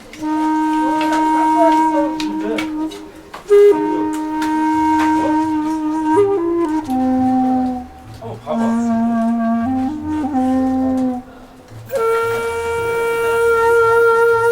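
Background music: a slow flute melody of long held notes that step between pitches, ending on a higher note held for a couple of seconds.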